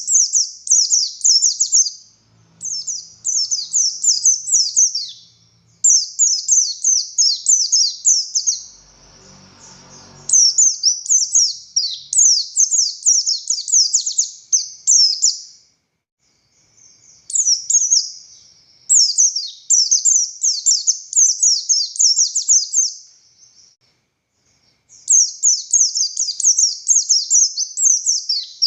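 Buxtoni white-eye (pleci) singing in long, fast runs of quick, high, down-slurred notes, each phrase a few seconds long with short breaks between. A brief low rustling noise comes about nine seconds in.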